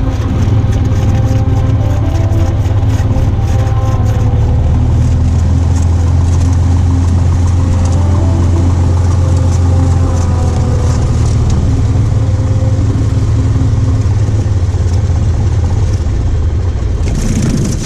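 Steady drone of a Cessna 182's piston engine and propeller, heard from inside the cabin.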